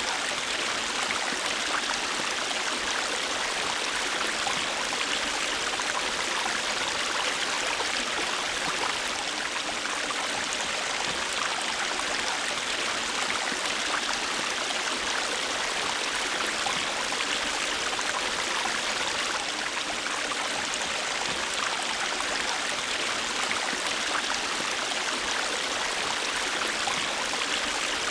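River water flowing over rocks: a steady, even rush with small gurgles and splashes.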